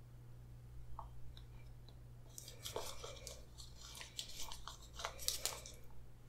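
Close-miked chewing of spaghetti with meat sauce: soft wet smacks and mouth clicks starting about two seconds in and going on for about three seconds.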